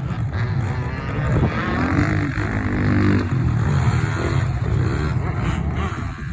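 Yamaha PW50 mini motocross bike's small two-stroke single-cylinder engine running, its pitch rising and falling as the throttle is opened and eased off.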